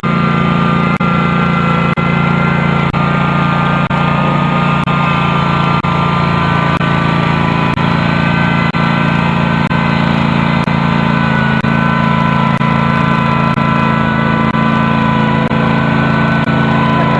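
Custom John Deere garden tractor's engine running steadily at an even speed.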